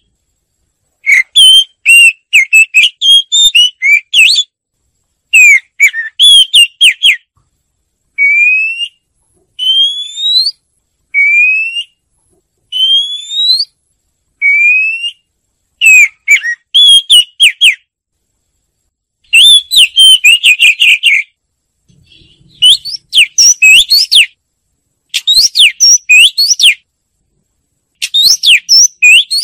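Oriental magpie-robin singing: bursts of quick, varied whistled phrases separated by short pauses, with a run of five clear rising whistles in the middle.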